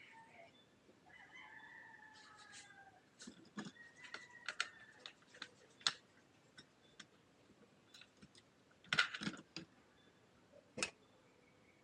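A rooster crowing faintly early on, then a scattered series of light clicks and knocks from tea things or cookware being handled, the loudest two a few seconds apart near the end.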